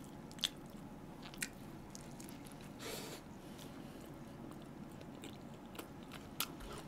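Faint mouth sounds of someone chewing a toasted bread sandwich, with a few soft clicks and smacks scattered through.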